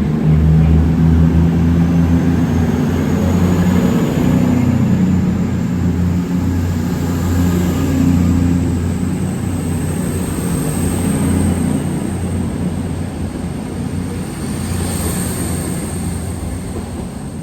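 A train pulling out of the station: a deep engine drone with a high whine that rises in pitch over the first few seconds, slowly fading as it leaves.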